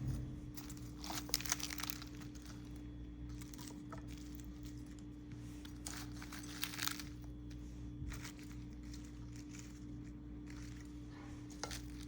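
Faint crinkling and rustling handling noise in two short spells, about a second in and again about six seconds in, with scattered small ticks between, over a steady low hum.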